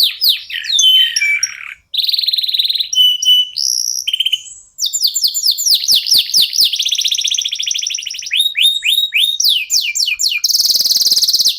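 Domestic canary singing: rapid buzzing trills alternating with rows of quick downslurred whistles, with two short breaks, at about two seconds and about four and a half seconds in.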